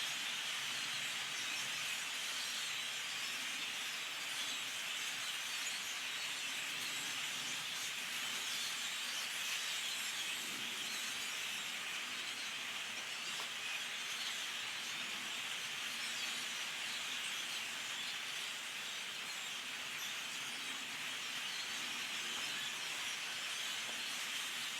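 A very large flock of birds calling all at once, blending into a steady, dense chatter in which no single call stands out.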